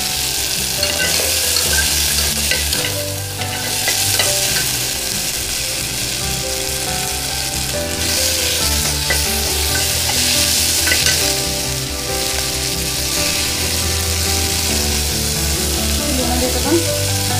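Chopped onion and tomato sizzling in hot oil in an open pressure cooker, stirred and scraped with a flat spatula against the pot.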